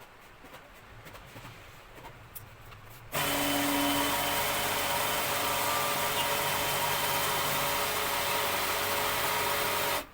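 A power tool runs steadily and loudly for about seven seconds, starting suddenly about three seconds in and cutting off abruptly near the end, after a few faint clicks.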